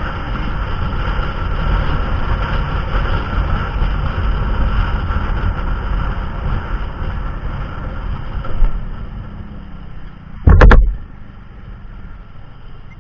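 Motorcycle riding on the road: steady engine and wind rumble, which fades after about nine seconds. Near the end comes one loud, short thump.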